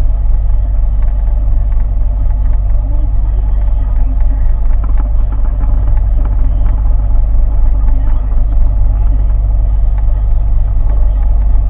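An engine running steadily with a deep rumble and an even hum over it.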